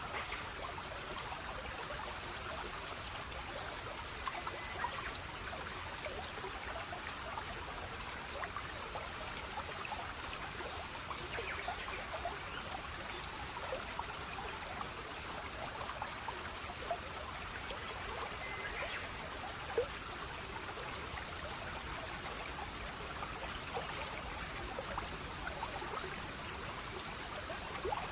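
Running water in a small stream, trickling and gurgling steadily, with many small drops and plinks over an even wash.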